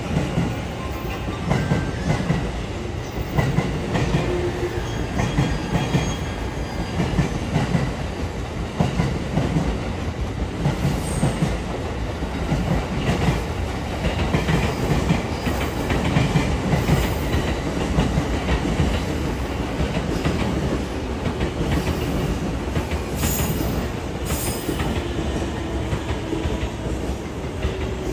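JR East passenger train running past at close range, its wheels clattering rhythmically over the rail joints.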